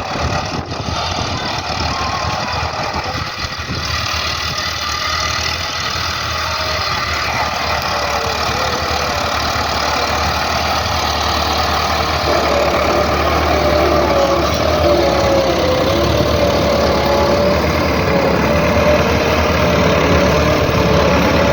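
Tractor diesel engine running steadily and growing gradually louder, with a wavering whine from about halfway.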